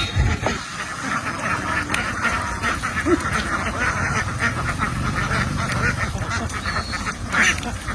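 A large flock of domestic ducks quacking all together, many voices overlapping into a steady, unbroken clamour.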